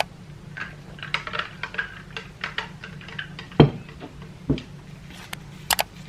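Small household objects being handled: a run of light clicks and clinks, with two heavier knocks past the middle, over a low steady hum.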